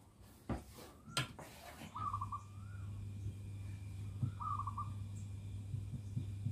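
A bird calling in the background: a short, quick pulsed call, heard twice about two and a half seconds apart, over a low steady hum. Two light knocks come in the first second or so.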